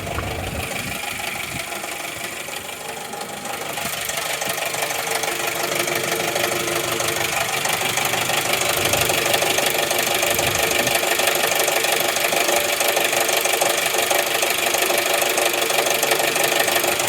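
Jeep Wrangler TJ four-cylinder engine running steadily, slightly louder from about four seconds in, with the noise the owners are chasing, which they think may come from the bottom end of the engine.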